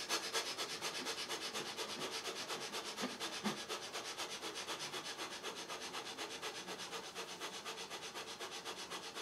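Kapalbhati breathing at fast pace: quick, forceful exhalations through the nose in an even rhythm of about four a second, each a short faint hiss.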